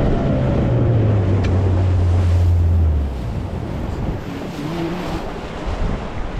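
Boat engine running with a low hum that sinks slightly in pitch and cuts off about three seconds in, leaving wind buffeting the microphone and water around the hull.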